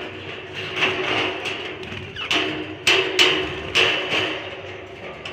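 A perch stick knocking and rattling against a parrot cage as it is worked loose and pulled out, with several sharp knocks about two to four seconds in.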